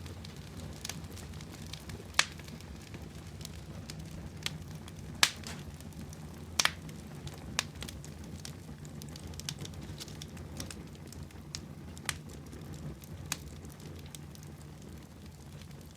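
Small wood fire burning in a miniature brick fireplace: a steady low rush with irregular sharp crackles and pops, a few of them louder.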